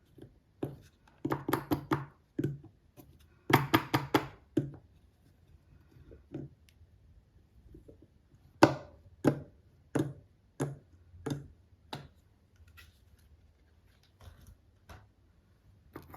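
Sharp taps and clicks of tiny toys being handled. Two quick runs of clicks come in the first few seconds, then from about halfway there are single taps about every two-thirds of a second, growing fainter near the end.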